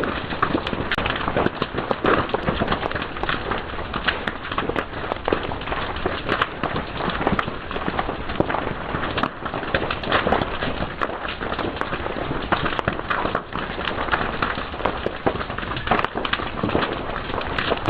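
Fire crackling and snapping: a dense, irregular run of sharp pops over a steady hiss.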